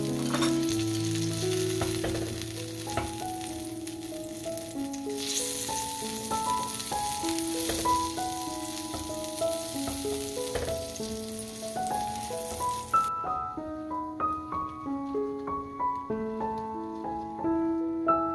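Butter and egg-coated toast sizzling in a hot griddle pan. The hiss grows louder about five seconds in and cuts off suddenly about two-thirds of the way through. Piano music plays throughout.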